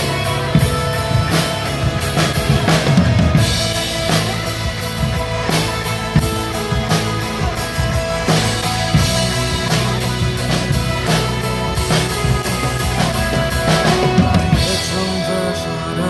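Drum kit played in a steady groove of kick, snare and cymbal strokes along with recorded backing music of a pop song.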